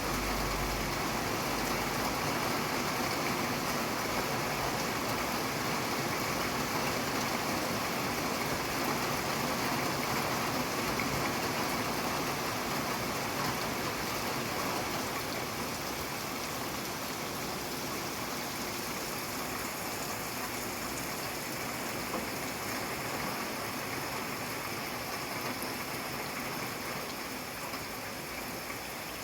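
Steady rain falling, an even hiss of drops with no thunder, easing slightly in the second half. A low rumble fades out in the first second.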